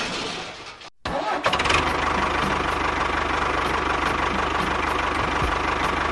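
An engine running steadily at idle with a rapid, even low beat, starting after a brief break about a second in.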